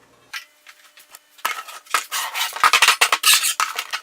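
Metal scraping and clinking against metal, a few scattered strokes at first, then a dense, rapid run of scrapes from about a second and a half in.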